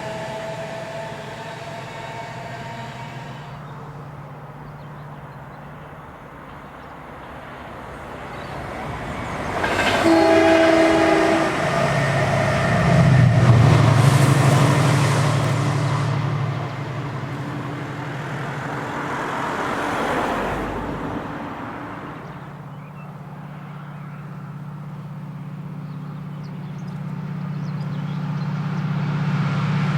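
Diesel locomotive-hauled passenger train: a short horn blast about ten seconds in, then the train passes, loudest a few seconds later, with a deep engine drone and the rush of the coaches. The engine drone builds again near the end.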